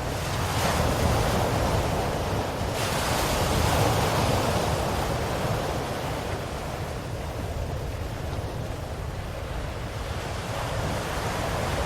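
Ocean waves washing onto a shore: a steady surf rush that swells and recedes slowly, brighter early on and softer in the middle before building again near the end.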